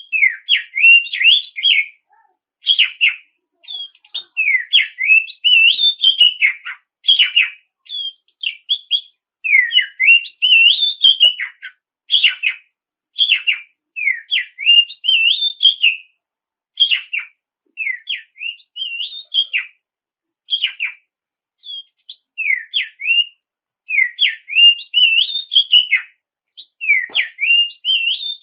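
Oriental magpie-robin (kacer) in full song: rapid runs of short, clear whistled notes sweeping up and down, delivered in bursts with brief pauses between phrases.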